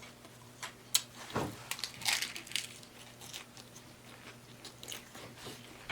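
Close-miked biting and chewing of a crunchy taco salad: wet, crackly crunches and smacks in irregular bursts, loudest about two seconds in.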